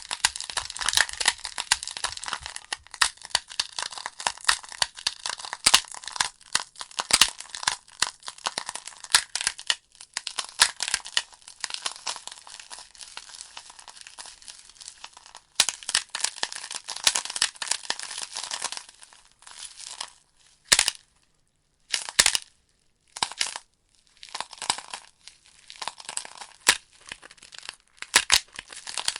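Wood fire crackling, a dense run of sharp pops and snaps from burning logs. About two-thirds of the way through the crackling thins to a few isolated pops with near silence between, then picks up again.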